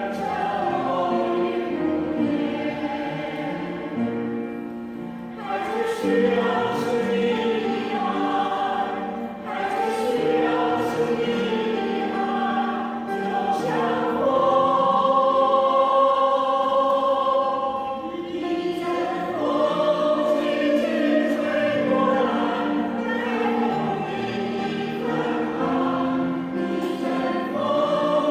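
A choir singing in several parts, holding long notes in slow phrases.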